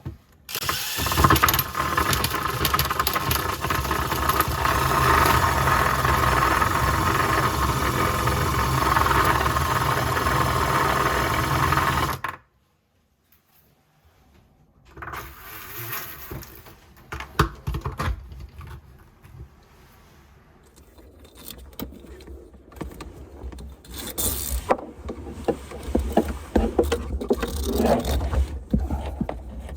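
Faucet-replacement work: about twelve seconds of loud, continuous scraping and rattling with a steady whine, cut off suddenly, then after a short silence quieter scattered clicks and clatter of tools and fittings being handled.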